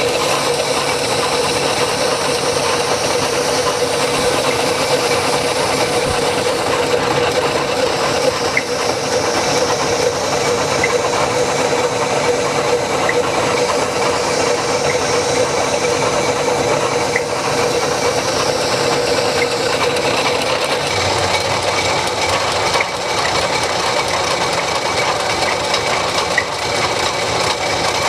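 A motor-driven shop tool runs steadily with a constant hum while something abrasive scrubs against metal, as a rusty rifle barrel is cleaned of rust.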